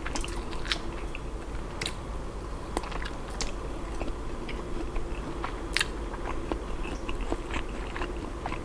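Close-miked chewing of a bite of grilled imitation crab stick: soft, wet mouth sounds with scattered short, sharp clicks.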